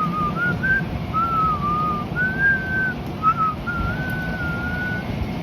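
A person whistling a tune: one clear wavering melody in short phrases that stops near the end, over a steady low background rumble.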